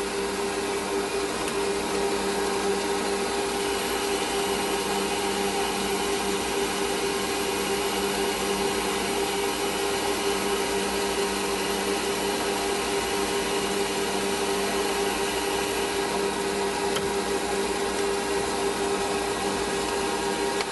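Metal lathe running with the power feed engaged, taking a cut on a small model-engine chimney: a steady motor and gearing hum. A faint high tone joins a few seconds in and fades out about three quarters of the way through.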